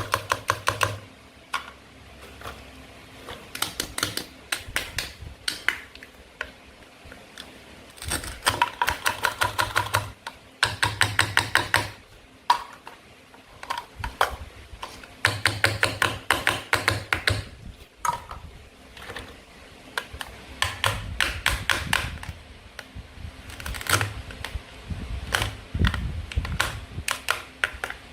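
Toy food being cut and handled with toy cutting tools: runs of quick, sharp plastic clicks and taps, about ten a second, each run lasting a second or two with short pauses between.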